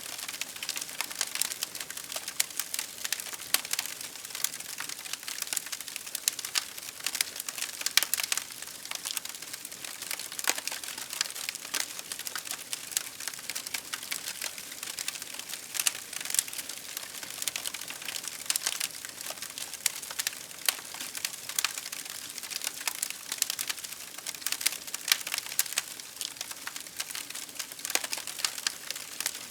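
Wood fire crackling: a dense, irregular run of sharp pops and snaps over a soft hiss.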